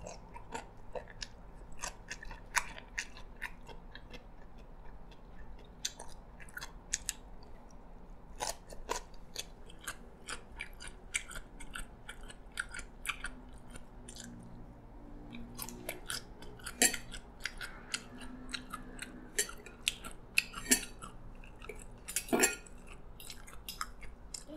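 Close-miked chewing of a mouthful of rice and crisp cucumber, with many small crunches and wet clicks, a few of them louder.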